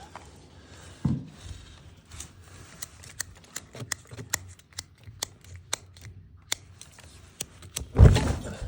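Fire crackling, with a faint hiss and many sharp, irregular pops. There is a thump about a second in and a heavier thud near the end, the loudest sound.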